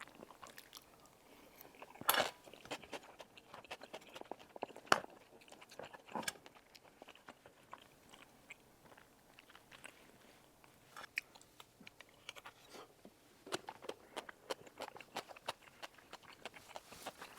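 Close-miked chewing of a mouthful of tteokbokki rice cakes, with wet mouth sounds and small irregular crackles throughout. A few sharper clicks stand out about two and five seconds in.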